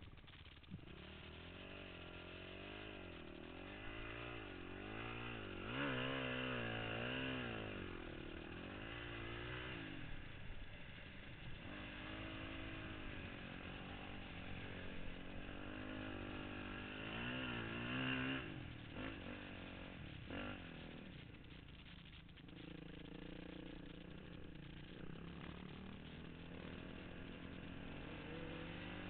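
Honda CRF450X dirt bike's single-cylinder four-stroke engine, heard from on the bike as it is ridden across sand dunes, its revs rising and falling again and again with the throttle.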